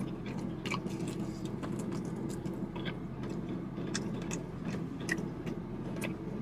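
A person biting and chewing sauced fried chicken wings: scattered short, wet mouth clicks over a steady low hum.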